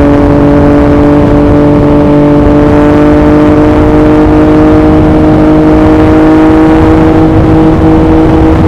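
2021 Yamaha MT-09's three-cylinder engine through an Akrapovic racing exhaust, running at steady high revs with its pitch slowly rising under gentle acceleration. Wind buffets the microphone underneath.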